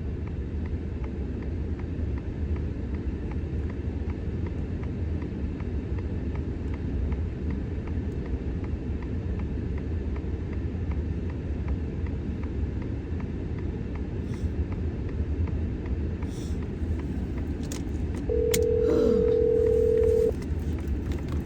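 Steady low rumble of a car running, heard from inside. Near the end a steady telephone ringing tone sounds once for about two seconds, like the ringback of an outgoing phone call.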